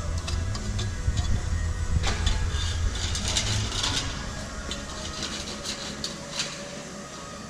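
A low engine rumble with scattered metallic clicks and clatter. The rumble dies away about five seconds in.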